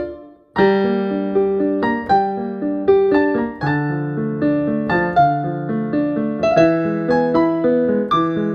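Solo piano playing. After a brief pause a sustained bass note sounds under a melody of single notes and small chords, and the bass steps lower about three and a half seconds in.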